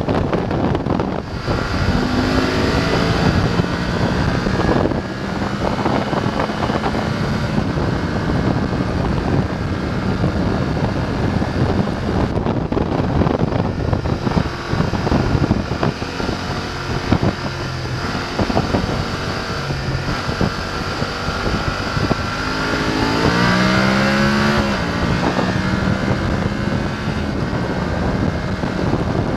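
BMW F850 GS parallel-twin engine running under way, with heavy wind noise on the microphone. The note dips briefly a few times and rises in pitch as it accelerates about five seconds before the end.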